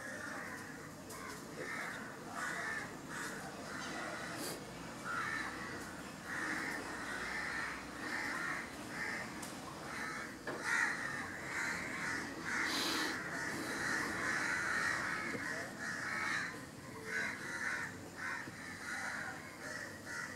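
Birds calling outdoors: a long run of short, harsh calls, one after another.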